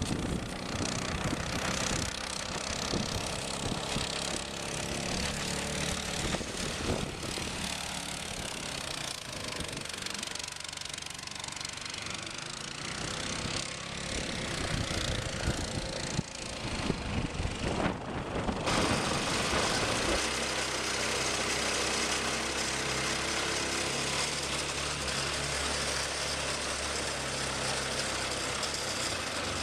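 Small gasoline mud motor running on a boat, its engine note steady with some rattle. About two-thirds of the way through the sound changes abruptly to a steadier, more even engine note.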